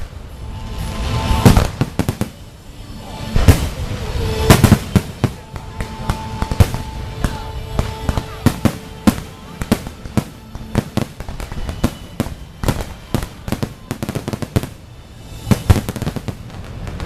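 Fireworks display: a dense, irregular string of aerial shell bursts and crackling reports, several bangs coming each second.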